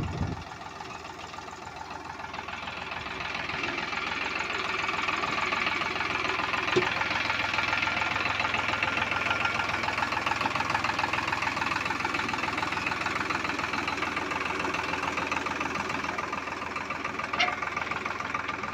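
Diesel engine of a tractor or backhoe loader running steadily with a fast, even firing beat, growing louder about three seconds in and then holding.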